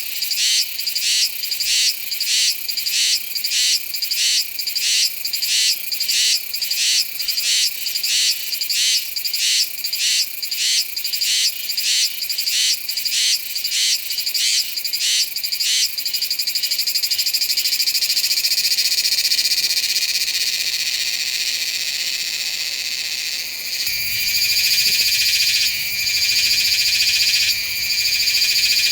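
Iwasaki's cicada (Meimuna iwasakii) singing. Its call starts as a high, even pulsing, about two pulses a second. About two-thirds of the way in it turns into a continuous buzz, which grows louder with a few brief dips near the end.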